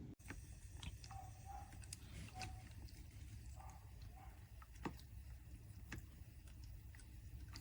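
A cool-mist humidifier running quietly: a faint steady low hum with scattered small clicks and a few short watery plinks.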